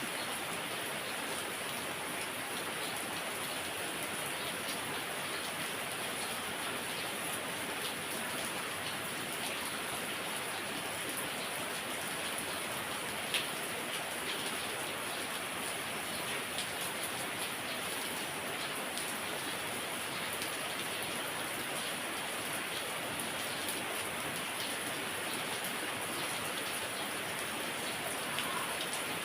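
Heavy rain falling steadily: a dense, even hiss of rain with scattered sharper drop impacts, and one louder drip about 13 seconds in.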